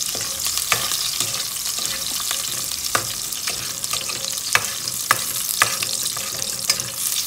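Sliced onions sizzling in hot oil in a metal pot as they are sautéed, with a steady hiss. A metal ladle stirs them, clinking sharply against the pot several times at irregular intervals.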